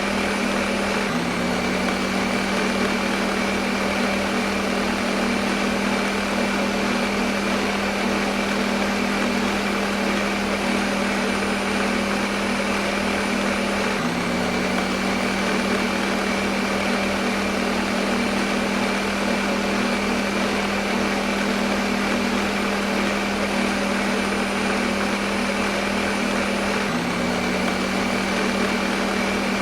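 Electric kitchen blender motor running continuously at one speed, a steady whirring hum over dense noise, with a brief hitch and a slight change in pitch about every thirteen seconds.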